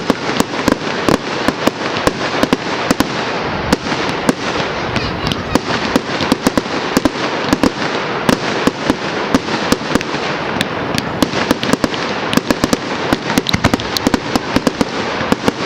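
Fireworks going off: a loud, dense crackle of many sharp pops and bangs, several a second, with no let-up.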